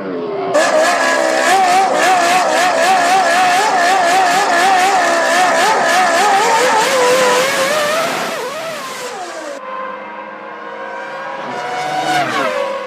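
Formula One cars' V10 engines running at high revs, their pitch wavering and climbing through the gears. Near the end a car passes with a quick fall in pitch.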